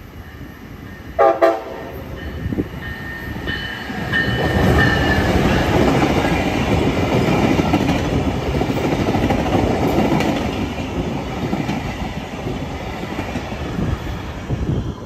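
Brightline passenger train giving a short horn blast about a second in, then passing close by: the rumble of its wheels on the rails builds, holds loud for several seconds and fades as the train goes by.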